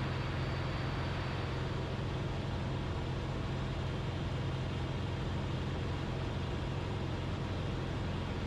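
Cessna 172RG's Lycoming four-cylinder engine and propeller droning steadily in flight at cruise power.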